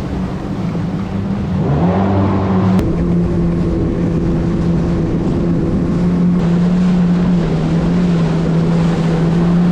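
Jet ski engine running steadily underway, its pitch rising about two seconds in and then holding steady.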